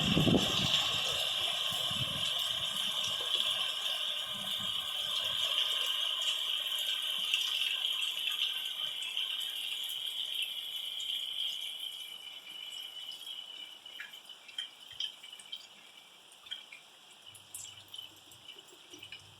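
Rain falling in a steady hiss that fades out over the second half, leaving scattered drips and ticks near the end.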